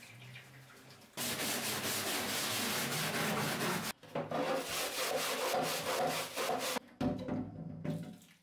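Wooden surface being sanded: a steady rubbing scrape in three stretches that start and stop abruptly.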